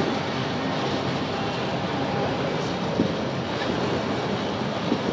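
Enclosed autorack freight cars rolling past: a steady rumble of steel wheels on the rails, with a couple of faint clicks.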